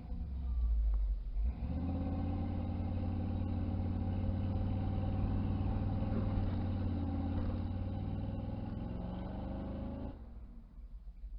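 1983 Chevy C10 pickup's engine held at steady high revs for about eight seconds, as in a burnout, then cut off suddenly about ten seconds in.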